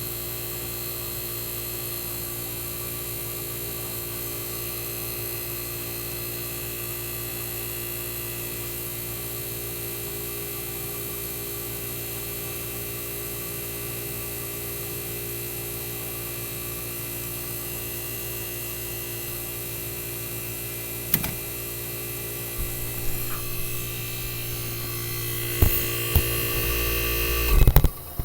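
Tecumseh AJM reciprocating compressor in a 1965 Fedders Weather Wheel air conditioner running with a steady hum. A click comes about 21 seconds in and a few louder knocks in the last several seconds, and the sound drops away abruptly at the very end.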